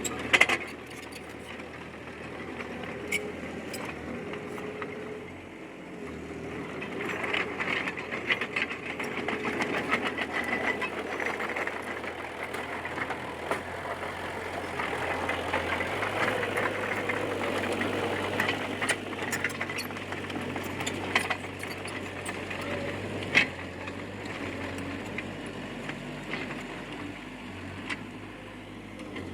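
Komatsu D20P crawler bulldozer at work: its diesel engine runs steadily, louder at times under load, with rattling and clanking from the tracks and sharp knocks now and then.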